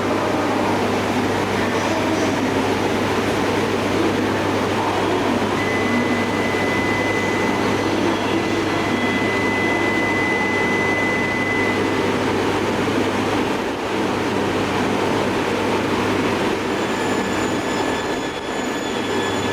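Shinkansen train moving through the station: a steady rumble of wheels and running gear under a low hum, with a thin high tone from about six to twelve seconds in.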